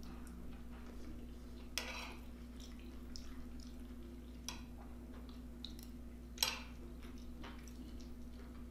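Quiet eating sounds: a utensil clicking lightly against a dish and soft squishy food noises, with sharper clicks about two, four and a half and six and a half seconds in, over a steady low hum.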